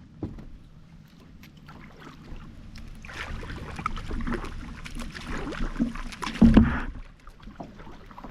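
Kayak on the water: splashing and sloshing with scattered knocks against the hull, busiest in the middle. A heavy bump comes about six and a half seconds in.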